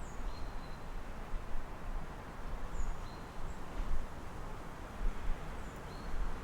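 City ambience heard through an open window: a steady low rumble of distant traffic, with a few faint, short, high bird chirps near the start, about three seconds in and near the end.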